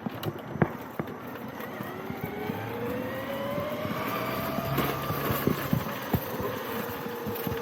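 Radio-controlled Traxxas TRX-4 truck's brushless electric motor and gears whining, rising in pitch over a few seconds as the truck speeds up, then holding and easing slightly near the end. Scattered clicks and knocks run throughout.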